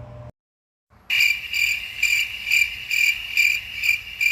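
Cricket chirping in an even rhythm, a little over two chirps a second, starting about a second in after a brief moment of dead silence.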